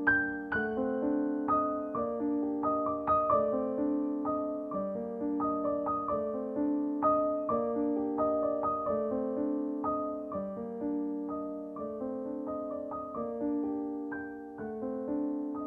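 Soft solo piano background music, with notes struck in a gentle, flowing pattern.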